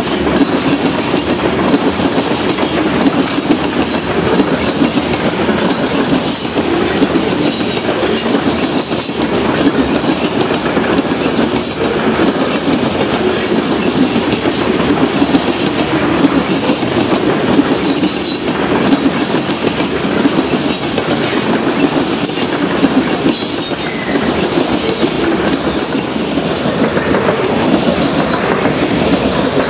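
Covered hopper cars of a grain train rolling past close by: a steady loud rumble of steel wheels on rail, with frequent clicks and clacks from the wheels over rail joints.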